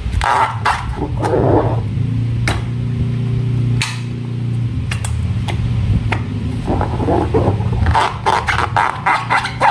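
Hands working slime: quick wet, sticky clicks and squelches, busiest at the start and near the end, over a steady low hum.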